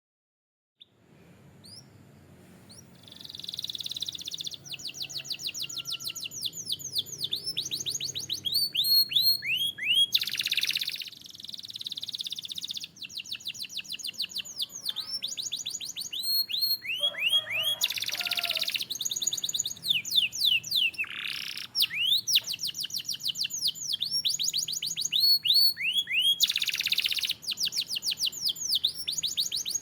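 Canary singing: fast trills of repeated downward-slurred notes, broken by short rasping rolls, in a long, almost unbroken song that begins about a second in.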